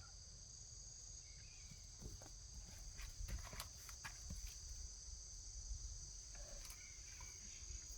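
Steady chorus of crickets trilling, with faint, scattered scratching and scrabbling of a kitten clawing at a styrofoam flowerpot.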